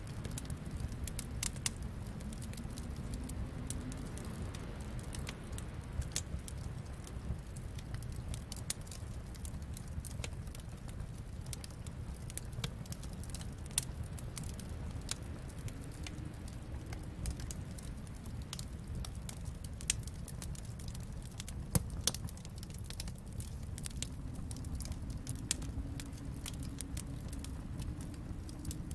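Wood fire in a fireplace crackling, with frequent small pops and snaps over a steady low rumble of the flames; a couple of sharper pops stand out about two-thirds of the way through.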